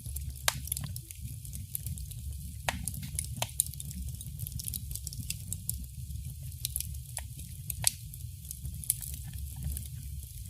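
Wood fire burning in a fireplace: a steady low rumble of flames with irregular sharp crackles and pops, a few of them louder, about half a second in, near 3 s and near 8 s.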